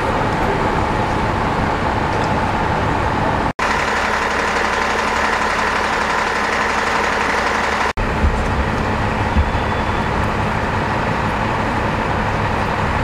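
Steady engine noise of fire trucks idling at a fire scene, with a faint steady hum. The sound cuts out sharply twice, at about three and a half and eight seconds in.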